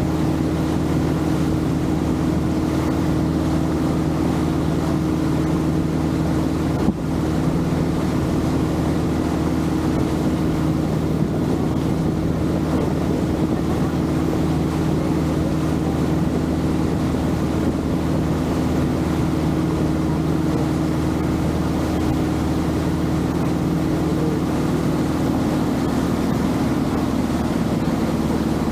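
Longtail boat's engine running at a steady speed. A single sharp knock sounds about seven seconds in.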